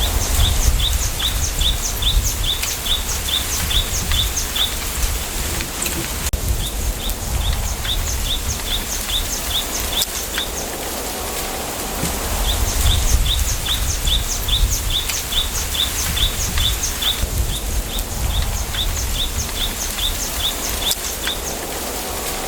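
Wind hissing through a bamboo forest's leaves, with a low rumble of wind on the microphone, while a bird repeats rapid series of short high chirps, about five a second, in runs of a few seconds separated by pauses.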